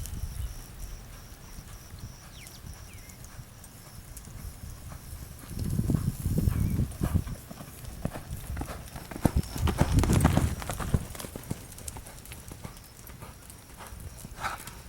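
Horse's hooves striking the ground in an uneven run of clip-clops, heaviest about six and ten seconds in.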